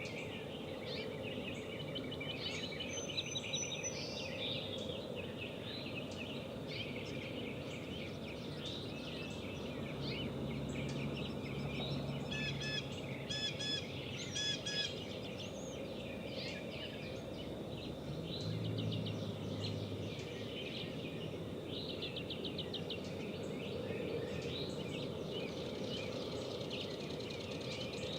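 Several wild birds calling and singing against a steady outdoor background hiss, with short chirps and trills throughout and a quick run of three sharp, repeated calls about halfway through.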